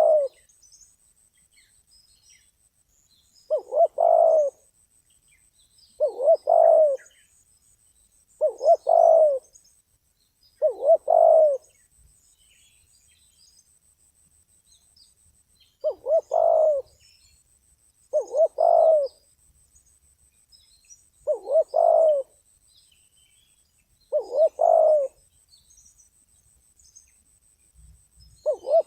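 Spotted dove cooing: a low, rolling phrase of a few notes, about a second long, repeated every two to three seconds with a pause of about four seconds midway. Faint chirps of small birds are heard in the background.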